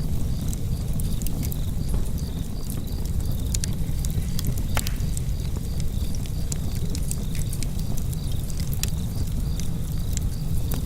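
Wood fire burning in a fireplace: a steady low rumble of flames with frequent small crackles and pops, one sharper pop about halfway through.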